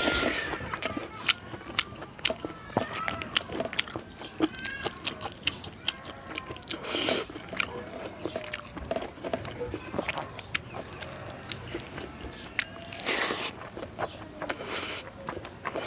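Close-up eating sounds: a person chewing and smacking a mouthful of rice, dal and vegetables, with many quick wet clicks of the mouth and a few longer, louder mouth noises around the middle and near the end.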